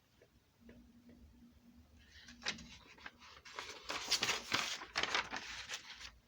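Rustling, crinkling handling noise: a dense run of small clicks and crackles that starts about two seconds in and grows louder for a few seconds.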